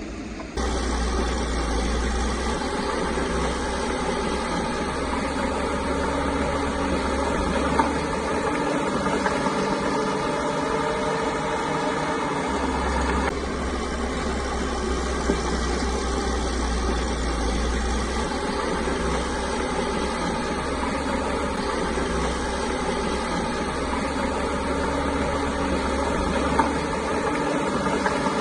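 Caterpillar bulldozer's diesel engine running steadily under work, with a few light knocks. The sound gets suddenly louder about half a second in.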